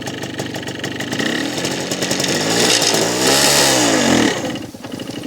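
Motorcycle engine running under way, its pitch climbing for about two seconds in a rising whine and then falling back, growing quieter near the end.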